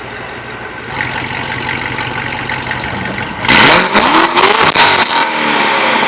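Chevrolet Corvette C7 Z06's supercharged 6.2-litre LT4 V8 idling through its sports exhaust, then blipped hard several times from about three and a half seconds in, its pitch rising and falling with each rev, before holding at a higher, louder run.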